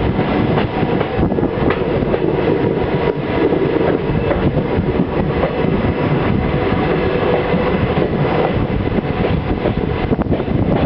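An Indian Railways passenger train running at speed, heard from an open coach doorway: a steady rumble of wheels on the rails, with faint clicks at the rail joints.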